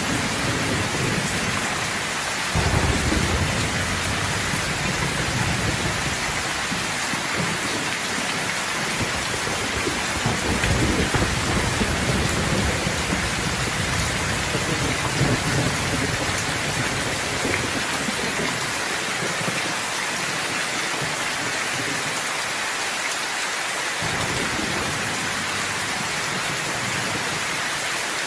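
Steady rain falling in a thunderstorm, with long low rolls of thunder, one starting about two and a half seconds in and another about ten seconds in.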